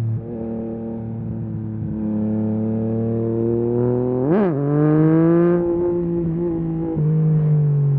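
Yamaha MT-09 SP's 890 cc inline three-cylinder engine running through a full Akrapovic race exhaust while riding. The pitch steps with gear changes, and about four seconds in a quick sharp rev rises and falls, followed by a higher held note for about a second.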